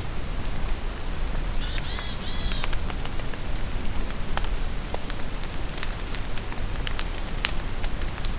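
Steady rain falling in a forest, with scattered drops ticking. About two seconds in a bird sings a short, high, rapid phrase, and brief high chirps sound now and then throughout.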